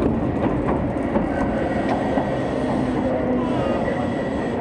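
Hokuso Railway 9000-series electric train running through a station, heard from inside the passenger car: a steady rumble with the clatter of wheels on the rails and a faint high whine.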